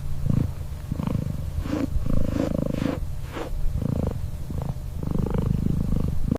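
An animal's low, rumbling purr-like vocalisation in repeated pulses, with a few brief clicks.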